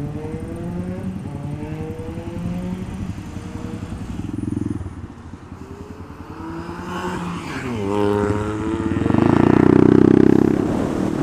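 Honda Grom's 125 cc single-cylinder engine pulling away and running up through the gears, its pitch climbing in steps and dropping back between them. Near the end it revs hard and loudest for a second or so, then eases off.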